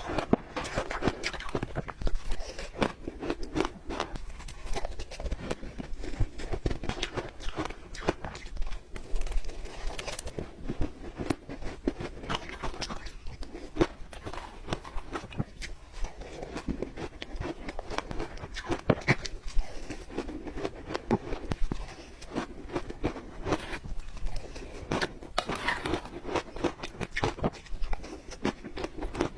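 Crunchy ice being bitten and chewed close to the microphone: a dense, irregular run of sharp cracks and crunches.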